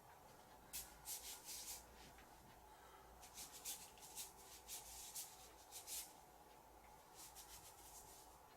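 Brush dragged over paper in short, quick strokes: a faint dry rubbing, repeated irregularly in small clusters.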